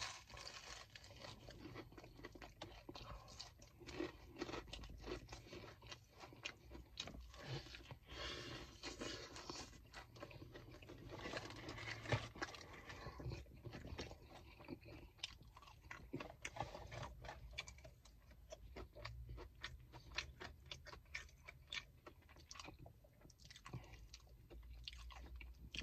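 A man chewing a mouthful of crispy fried chicken close to the microphone, with many small irregular crunches of the breaded crust.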